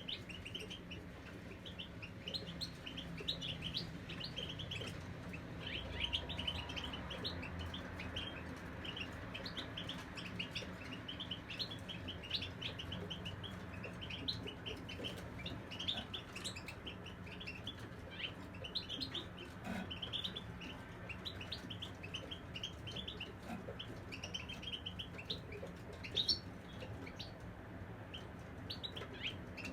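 Caged European goldfinches twittering and singing: a continuous stream of quick, short high chirps and trills.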